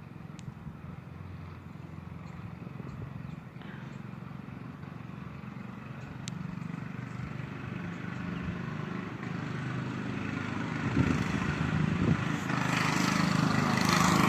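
Two small 80cc mini bike engines approaching from a distance, growing steadily louder and loudest near the end.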